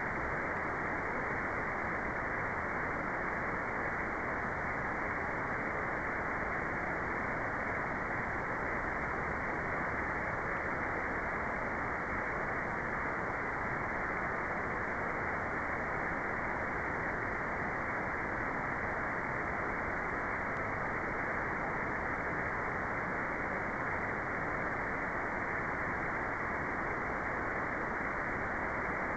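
Steady white noise, a constant even hiss with its high end cut away, so it sounds soft and muffled rather than bright.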